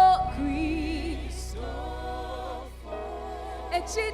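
Gospel worship song: voices singing with vibrato over a band's steady bass, a long held note just at the start, then a flowing sung line.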